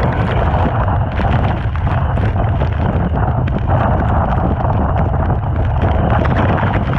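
Typhoon-strength wind buffeting the microphone with a steady low rumble, over the continuous roar of rough sea and surf, with many small ticks scattered through it.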